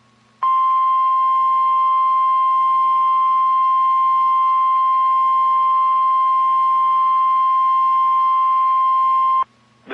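NOAA Weather Radio warning alarm tone: a single steady 1050 Hz tone held for about nine seconds, then cut off sharply. It is the signal that a warning, here a tornado warning, is about to be read.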